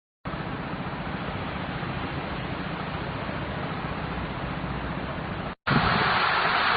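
Steady rushing noise that starts abruptly just after the start, breaks off for a moment about five and a half seconds in, and comes back louder.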